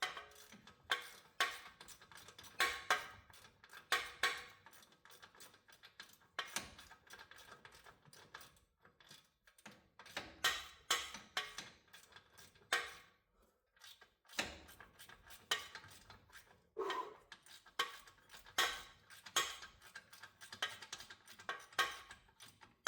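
Hand tools on the steel parts of a truck's front suspension: irregular sharp metal clinks and clanks, about one or two a second, some ringing briefly, as a wrench and socket are worked on the nuts.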